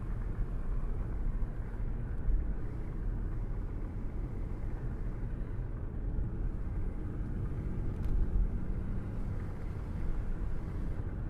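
Steady road noise of a moving car, a low rumble of engine and tyres.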